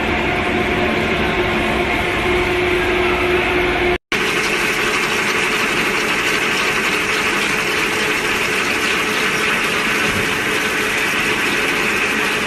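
Industrial drilling machine running steadily with a constant motor hum. About four seconds in, a hard cut switches to a harsher, hissier steady machining noise.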